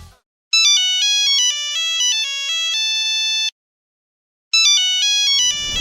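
Nokia phone ringtone: a high, beeping electronic melody of short stepped notes ending on a longer held note. After about a second's pause it starts again.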